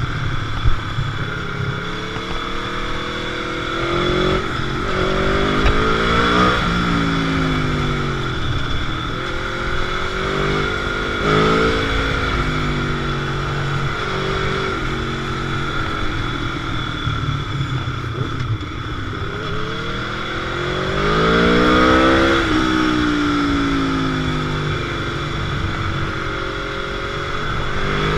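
Motorcycle engine on a ride, revving up and easing off again and again, its pitch rising and falling through the gears, with the loudest pull about three-quarters of the way through.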